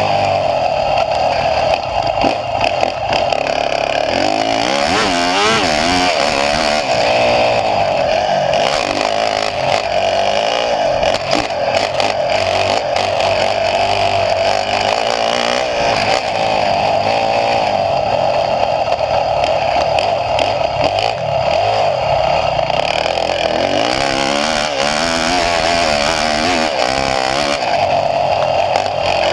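Motocross bike engine running hard, its note rising and falling with the throttle as the bike is ridden.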